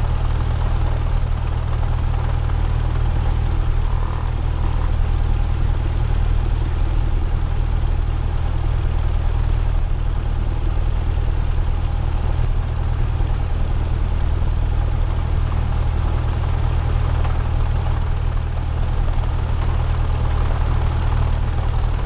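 Steady drone of a Cessna 172R's four-cylinder Lycoming engine and propeller in flight, holding an even pitch.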